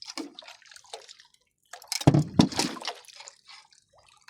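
Water dripping and splashing in short irregular patters, with a louder splash and thump about two seconds in.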